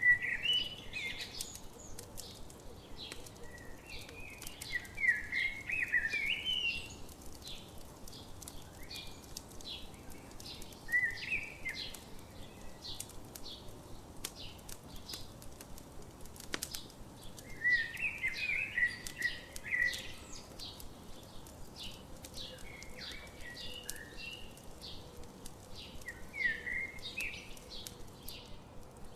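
Campfire crackling with frequent sharp pops, while a songbird sings short warbling phrases every few seconds.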